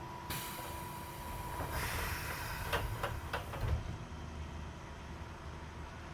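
Pneumatic sliding passenger doors of a Keisei 3400 series train working at a station stop: a hiss of air, then the doors sliding and coming to rest with several knocks about three seconds in.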